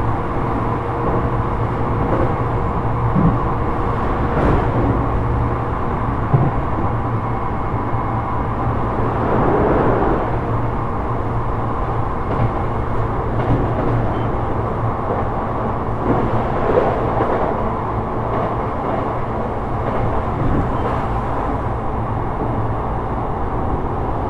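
Onboard running sound of a Sotetsu 12000-series electric train with Mitsubishi IGBT-VVVF control travelling along the line: a steady rumble of wheels on rail with a low hum, and a few scattered knocks from the track.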